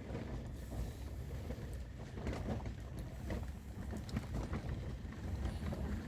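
Wind buffeting the microphone as a low, uneven rumble, with faint scattered knocks and crunches over it.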